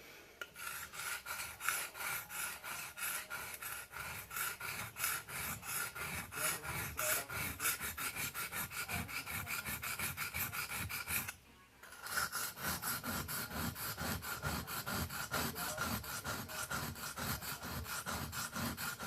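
Knife blade being stroked back and forth on a wet whetstone, a quick, even scraping rhythm that breaks off briefly about eleven seconds in, then resumes.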